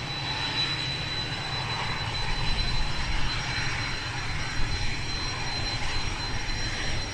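Jet aircraft engines running, a steady high whine over a low rumble and rushing noise.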